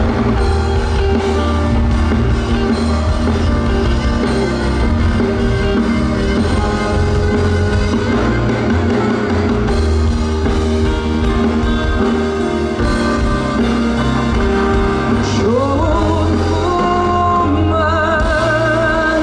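Live rock-style band playing loud, with drum kit, bass and guitar. Near the end a singer comes in, holding long notes with vibrato.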